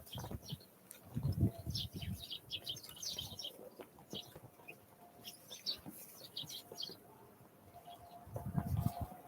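Small wild songbirds giving many short, high chirps and calls in bursts, with a few low thuds about a second in and again near the end.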